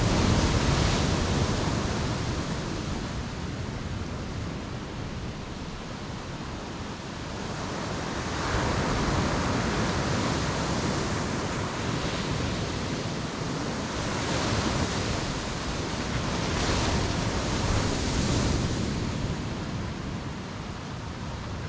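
Ocean surf washing onto the shore: a steady rush that is loudest at the start, eases off, then builds again in several swells of breaking waves in the second half.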